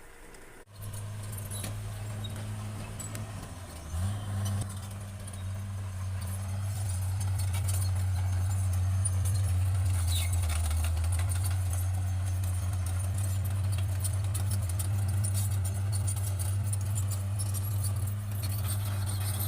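Bulldozer's diesel engine running steadily, with metal clanking and rattling over it. It starts abruptly under a second in and gives a brief jump in pitch and level at about four seconds.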